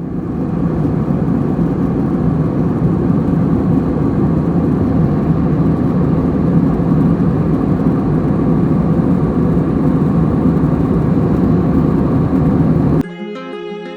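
Loud, steady jet engine and airflow noise inside the cabin of an Airbus A321, with a low hum under it. It starts abruptly and cuts off near the end, where guitar music takes over.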